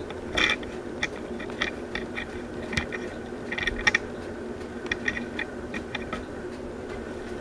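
Design House Manhattan ceiling fan running on high with a steady hum, wobbling because some blade arms are bent out of balance. Irregular light clicks and ticks come through over the hum.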